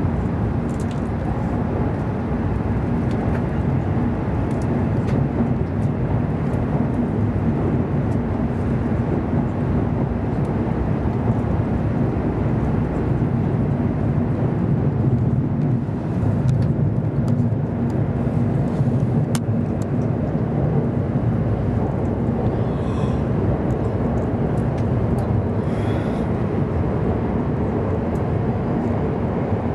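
E7 series Shinkansen running, heard inside the passenger cabin: a steady low rumble with a constant hum under it.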